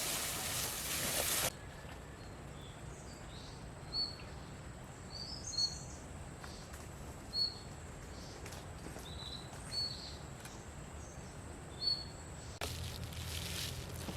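Quiet countryside ambience with a bird giving short single chirps every couple of seconds, over a faint steady high tone. A loud, steady rushing hiss fills the first second and a half, cuts out abruptly, and cuts back in near the end.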